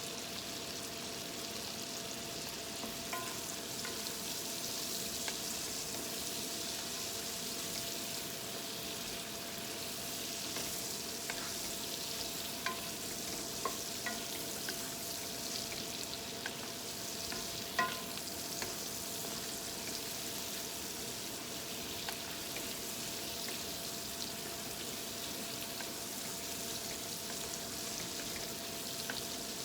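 Food sizzling steadily in a hot pan as it is stir-fried, with scattered light clicks of a utensil against the pan; the loudest click comes a little past halfway.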